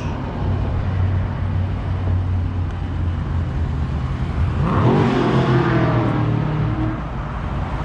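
Dodge Charger Scat Pack's 392 Hemi V8 idling with a steady drone. About five seconds in it revs up, the pitch rising and holding for a couple of seconds before dropping back near the end. The exhaust has its mid-muffler deleted.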